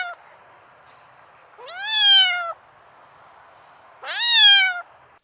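Domestic cat meowing: two clear meows about two seconds apart, each rising then falling in pitch, after the tail end of a previous meow at the very start.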